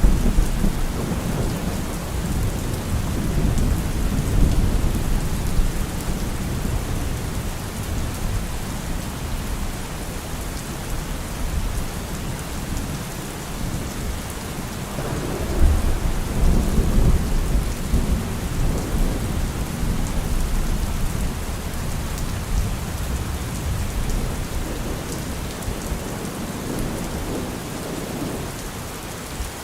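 Heavy rain on a car roof, a steady hiss, with low rolling thunder underneath that swells about halfway through and then fades.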